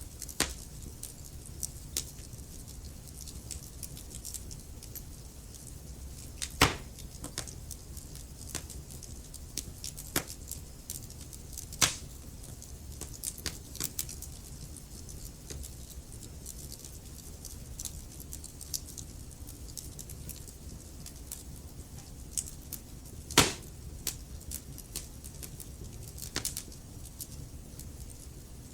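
Wood fire crackling: irregular sharp pops and snaps over a low steady rumble, with two louder pops, one about a quarter of the way in and one near the end.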